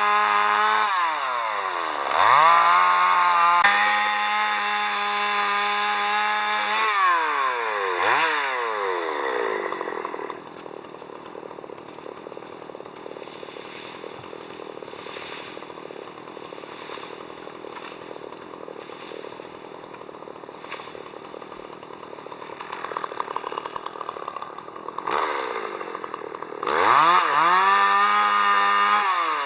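Chainsaw revving hard in several bursts over the first seven seconds or so, then running much quieter for about fifteen seconds, and revving high again near the end.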